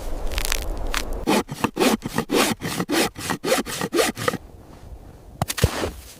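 Rhythmic back-and-forth scraping, about four strokes a second for some three seconds, followed by a few separate scrapes near the end.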